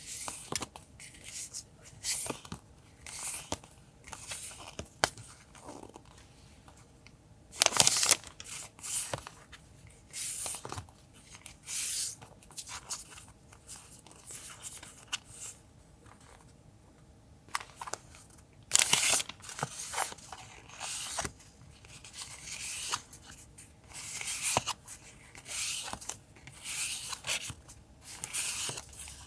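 Paper and packaging being handled in short, irregular rustles and tears, with louder tearing about 8 seconds in and again about 19 seconds in.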